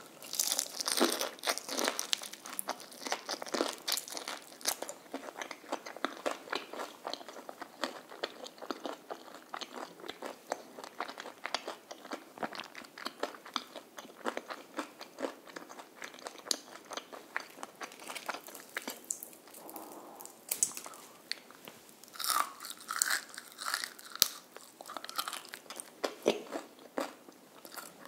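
Close-miked biting and chewing of crispy fried chicken: a dense run of loud crunches in the first few seconds, steady chewing crunches through the middle, and another burst of crunching about 22 seconds in.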